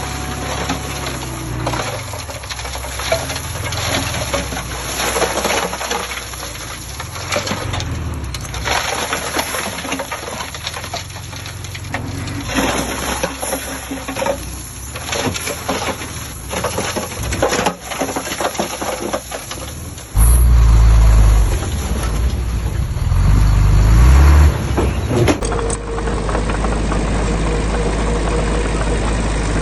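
Heavy diesel construction machinery at work: about twenty seconds of engine sound mixed with clattering and scraping, then a sudden, much louder low engine rumble, and a steady diesel engine running near the end.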